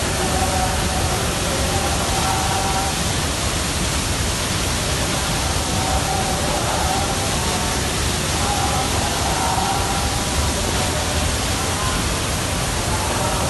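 Steady rushing of a waterfall, a constant even roar of falling water, with faint voices coming and going behind it.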